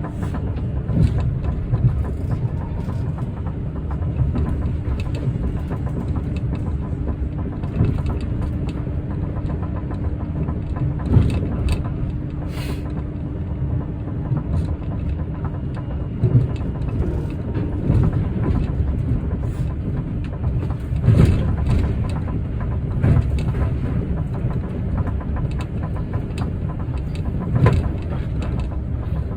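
Interior sound of an Osaka Metro New Tram rubber-tyred automated guideway train: a steady running noise with a faint drive-motor tone that holds until about halfway. After that come scattered clunks and knocks.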